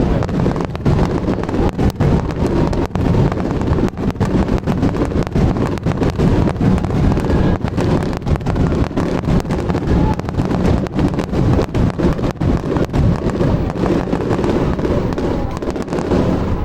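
Aerial fireworks going off in a dense, continuous barrage of many sharp bangs and crackles in quick succession, stopping right at the end.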